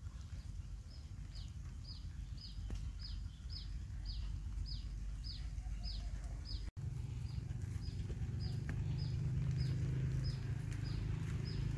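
A bird calling over and over: short, high, downward-sliding chirps at an even pace of a little over two a second. A low rumble runs underneath and grows louder after a brief dropout partway through.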